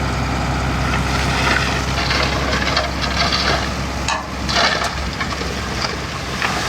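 Heavy machinery diesel engine running steadily at a low idle, dropping away about four seconds in, with scattered rattling and hissing noises over it.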